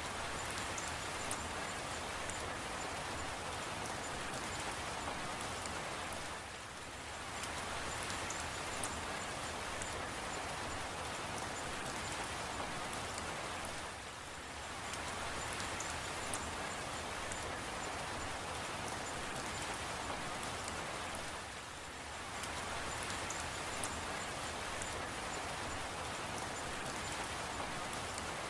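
Steady rain: an even hiss of rainfall with scattered small drop ticks. The level dips briefly about every seven and a half seconds, as a looped rain recording does.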